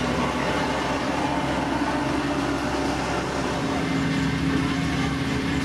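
Diesel engine of heavy road-construction machinery running steadily. A low engine note grows clearer after about three and a half seconds.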